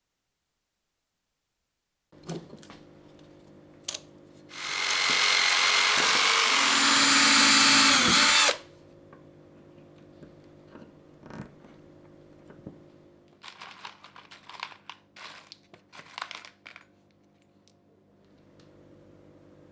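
Electric drill running for about four seconds, then winding down with a falling pitch, followed by scattered clicks and knocks of handling.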